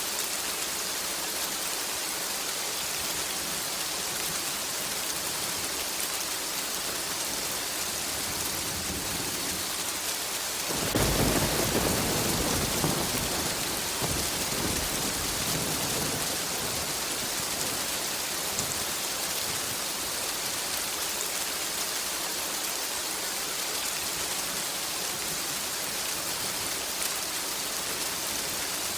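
Steady heavy rain hissing, with a clap of thunder about a third of the way in that rumbles on and fades over several seconds.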